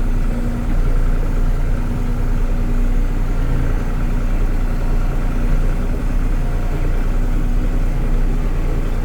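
Kubota L3560 tractor's four-cylinder diesel engine running steadily while it works a tree-pulling attachment, with a steady hum in its sound.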